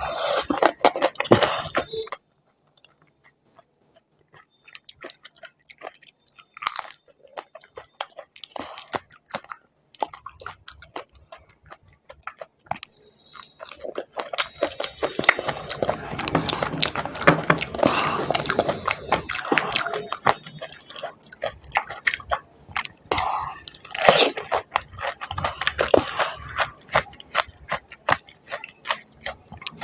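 Close-miked biting and chewing of crisp pani puri (golgappa) shells, with many sharp crunches and mouth sounds. After a brief near-silent pause near the start, the crunching is densest around the middle.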